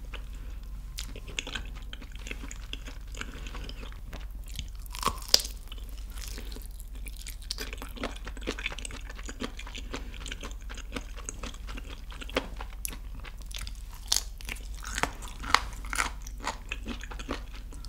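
Close-miked eating of a sauce-glazed yangnyeom fried chicken drumstick: the meat is bitten off around the bone and chewed, with crunches and wet mouth clicks. The sharpest crunches come about five seconds in and again between fourteen and sixteen seconds, over a steady low hum.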